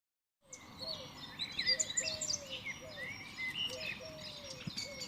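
Several birds chirping and singing at once, high quick chirps and warbles over a lower call that falls in pitch and repeats about once a second.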